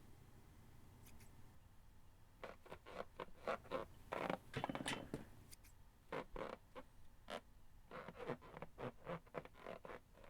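Homemade foley of short rustling, squeaking and scraping sounds in quick clusters, standing in for the vinyl robot Baymax inflating and moving.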